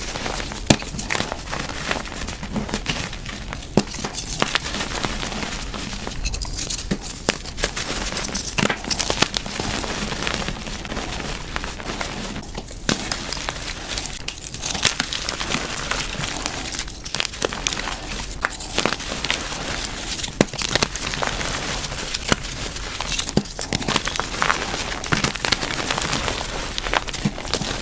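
Reformed gym chalk being crushed: a continuous crunching and crackling, with many sharp cracks throughout.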